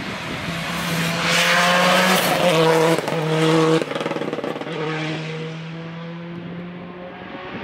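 Rally car passing at full speed on a special stage: the engine note rises to its loudest about a second in, breaks briefly several times at gear changes, then fades as the car drives away.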